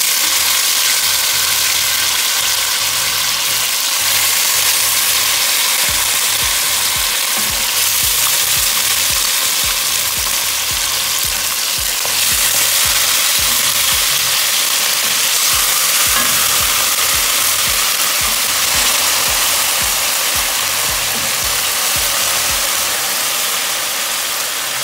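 Boiled chicken pieces frying in hot oil in a pot: a loud, steady sizzle.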